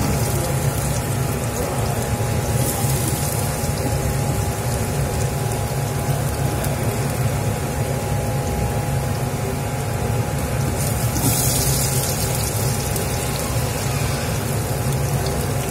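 Sliced garlic and chopped onion frying in hot oil in a steel pot: a steady sizzle over a constant low rumble. The hiss grows louder twice, about three seconds in and again around eleven seconds.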